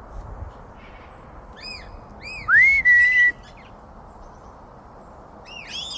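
Short arched bird chirps, then a loud whistle that sweeps up and holds one steady note for under a second, followed by more chirps near the end, over steady wind noise.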